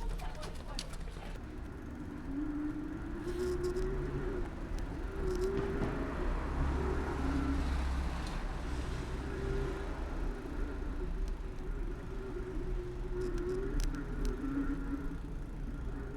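Bicycle riding along a city street, heard through a handlebar-mounted camera: steady road and tyre rumble with a wavering hum and scattered light rattles, growing louder in the middle as traffic goes by.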